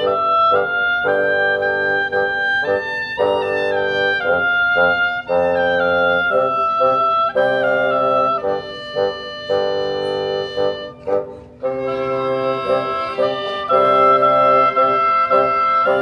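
School concert band playing a holiday piece: sustained chords under a stepping melody, with a brief dip about eleven seconds in before the full chords return.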